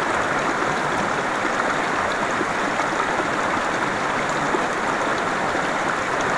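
Small river running over a riffle of white water: a steady, unbroken rush.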